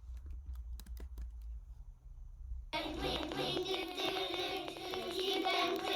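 A few sharp clicks, then from about two and a half seconds in, audio playing through a 16-inch MacBook Pro's built-in speakers with crackling and popping running through it. This is the speaker glitch that shows up when Logic runs at a 32 or 64 sample buffer.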